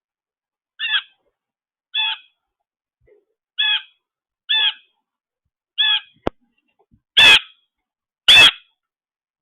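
A bird calling seven times, roughly once a second, in short pitched calls; the last two are louder and harsher. A single sharp click comes about six seconds in.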